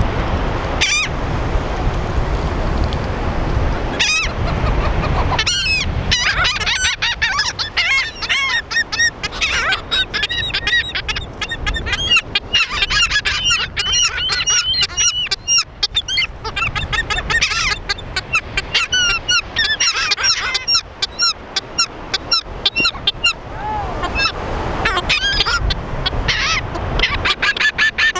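A flock of gulls squawking at once, many short calls overlapping as they squabble over food. For the first few seconds only a low rushing noise is heard; the calling builds from about five seconds in.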